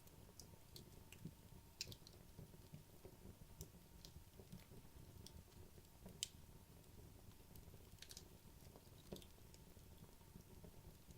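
Wood logs burning in a fireplace, crackling faintly with scattered sharp pops and clicks over a low fire rustle; the loudest pop comes about six seconds in.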